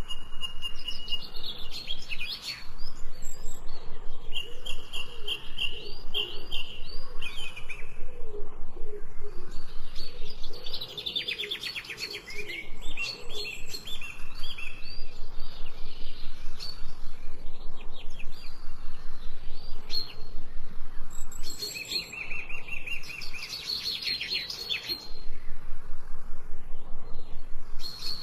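Several songbirds chirping and singing, with overlapping high-pitched trills and whistled phrases coming in clusters, and a lower wavering call underneath.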